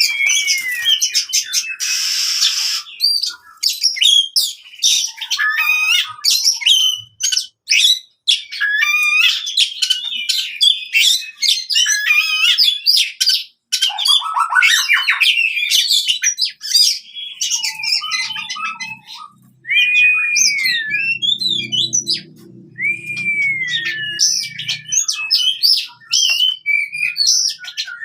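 Oriental magpie-robin (kacer) singing its aggressive, territorial 'fighting' song: a fast, unbroken run of varied whistles, chatter and harsh squawky notes, with long falling whistles. A faint low hum sits underneath for a few seconds past the middle.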